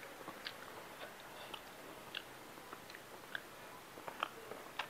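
Faint close-up chewing of a mouthful of food, with scattered small clicks and smacks.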